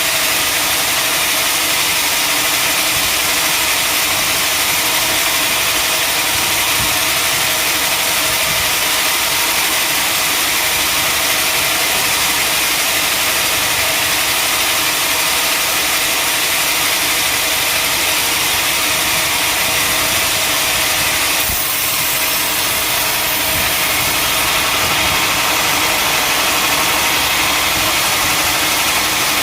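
Sawmill machinery running steadily, a loud even engine-like whir with no pauses, with a brief change in the sound about 21 seconds in.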